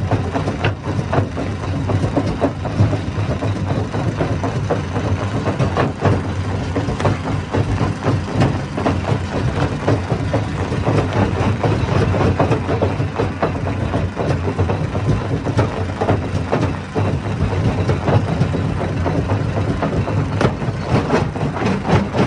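Hammer stone crusher running under load: a steady low engine drone under a dense, irregular clatter of rocks being smashed. Near the end the knocking turns more regular.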